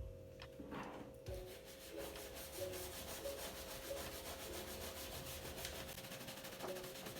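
Rapid scrubbing against a refrigerator surface, a steady rasping that starts about a second in, over soft background music with a repeating plucked melody.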